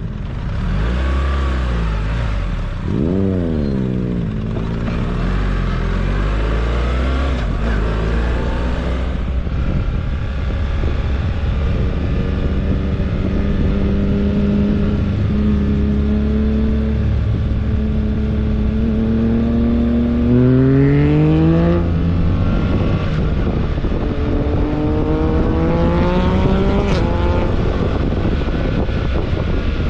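BMW R1300GS Adventure's 1300 cc boxer-twin engine under way, heard onboard. The revs swing quickly up and down about three seconds in, hold fairly steady through the middle, then climb twice in the last third as the bike accelerates.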